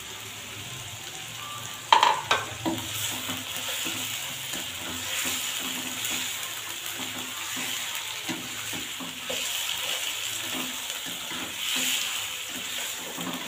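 Chicken pieces sizzling in ghee with ginger-garlic paste in a nonstick wok, being stirred and turned with a slotted spatula in repeated scraping strokes while they are lightly browned. A sharp knock about two seconds in.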